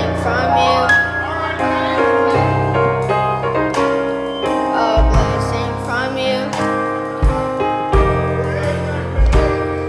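Church worship band playing gospel music: held keyboard chords over a bass line, with a kick drum thumping on the beat and voices singing.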